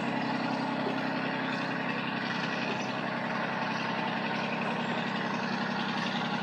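An engine running steadily at idle, with an even low drone.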